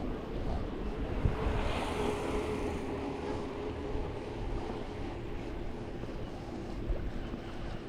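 Wind rumbling on the microphone over a steady engine hum, with a swell of rushing noise about two seconds in.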